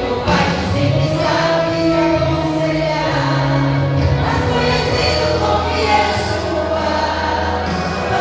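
A vocal group singing a gospel hymn in harmony with an accompaniment that holds steady bass notes.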